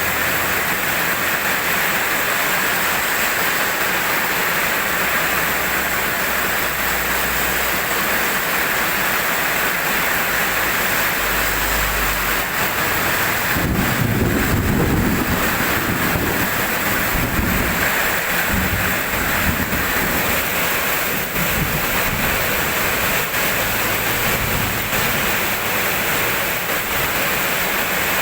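Steady rain falling, with a low rumble of thunder that rolls in about halfway through and fades away over several seconds.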